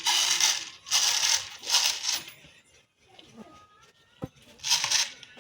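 Dry mung beans rattling and pouring in short bursts, with a sharp click a little after four seconds.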